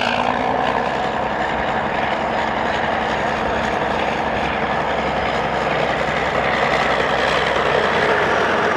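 Caterpillar crawler bulldozer running, a steady, loud mechanical noise that grows a little louder about six seconds in.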